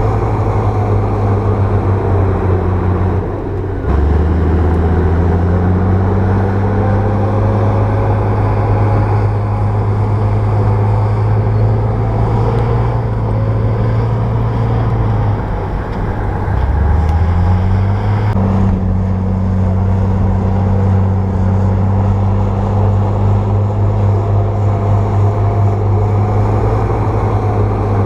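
Bulldozer's diesel engine running with a steady low drone. Twice its pitch drops sharply and then climbs back over a second or two, once about four seconds in and again around sixteen seconds.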